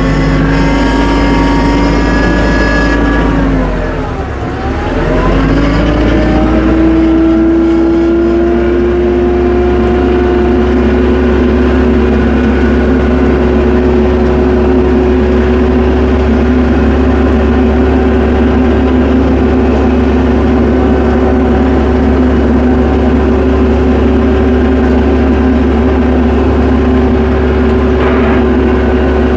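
Tractor engine running at high revs. About four seconds in the revs drop sharply, then climb back up and hold steady.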